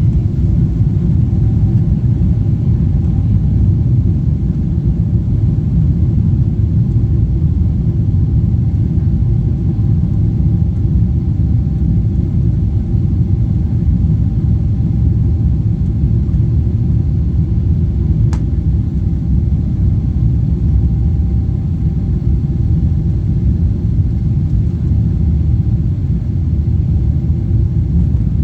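Jet airliner engines at takeoff power: a loud, steady low rumble with a faint, even whine above it. A single short click comes about 18 seconds in.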